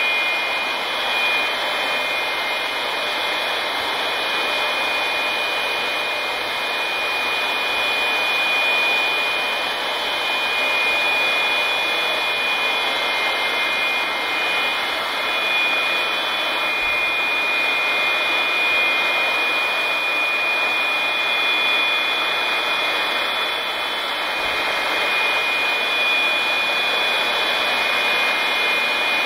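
Electric air blowers running steadily, a continuous rush of blown air with a high, even motor whine.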